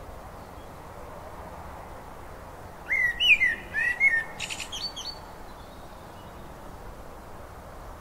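A songbird sings one short phrase of quick, sliding chirps about three seconds in, lasting about two seconds, over a steady faint background hiss.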